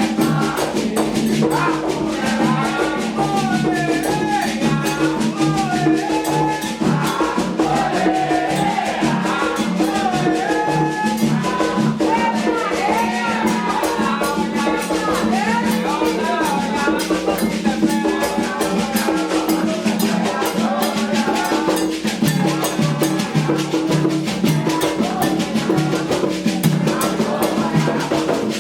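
Candomblé xirê music: atabaque drums and fast, dense percussion with voices chanting sung lines for the orixá Xangô.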